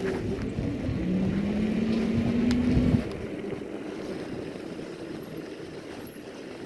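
Electric fat-tire bike's motor whining under power, the pitch rising slowly for about two seconds and then cutting off abruptly about three seconds in, over steady wind and tyre rumble.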